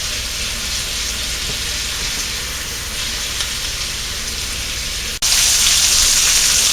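Chicken skin frying in oil in a ceramic tagine base, a steady crackling sizzle as it browns. About five seconds in the sizzle breaks off for an instant and comes back louder.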